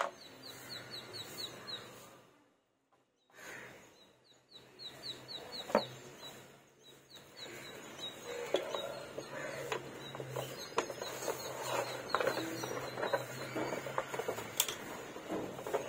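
A bird calling in quick runs of short, falling chirps, several times over. Underneath, rustling and light knocks as a large rolled painted sheet is handled and laid out on a plywood board, with a sharp knock about six seconds in.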